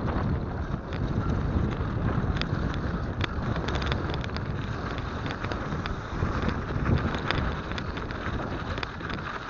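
Steady wind buffeting an action camera's microphone during a mountain-bike ride, a dense low rumble with scattered sharp clicks and rattles throughout.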